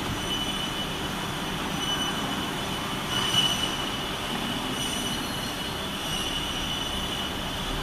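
CNC profile bending machine running with a steady high-pitched whine over a mechanical noise bed, briefly louder about three seconds in.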